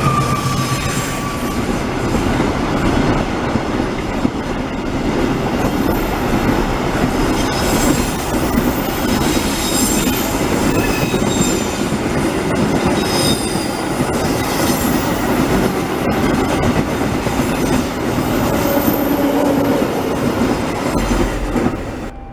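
Diesel-hauled train running through a rail curve, its wheels squealing in repeated high-pitched bursts over a steady rumble and clatter of wheels on the track. The sound cuts off suddenly near the end.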